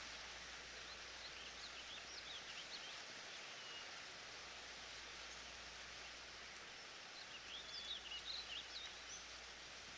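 Forest ambience: a steady soft hiss with small birds chirping in two short bursts of quick rising and falling notes, one starting about a second and a half in and another around seven and a half seconds in.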